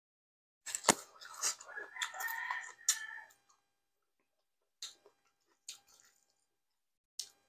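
Close-miked eating by hand: a sharp mouth smack about a second in as a pinch of rice goes into the mouth, then a couple of seconds of wet chewing. A few short separate clicks follow in the second half as fingers pick more food off the board.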